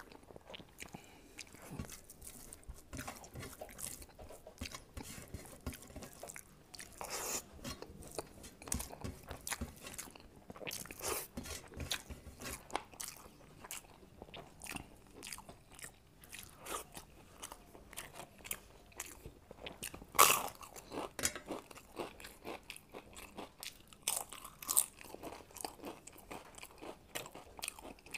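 A person chewing and crunching food with the mouth close to the microphone: many short wet clicks and crackles, with a few louder crunches scattered through.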